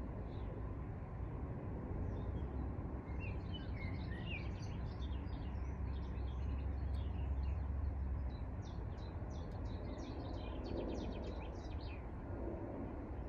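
Songbirds singing in quick chirps and trills over a steady low rumble of outdoor background noise.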